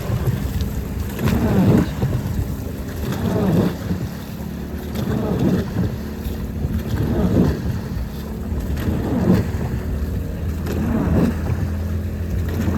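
Small waves slapping and washing about every two seconds, over a steady low hum, with wind buffeting the microphone.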